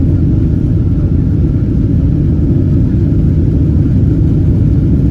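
Strong wind buffeting a phone microphone: a loud, steady low rumble.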